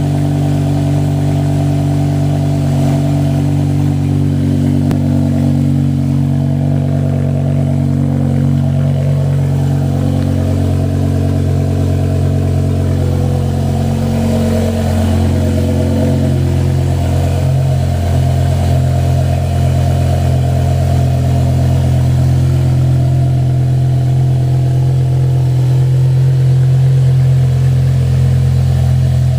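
BMW M6 running through an SD Motorsports aftermarket exhaust, holding a steady idle with a deep, even exhaust note.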